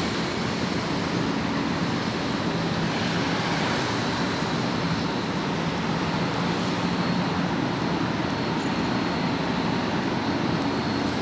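Steady hum and rush of a São Paulo Metro Line 3 train, even throughout with no sudden events.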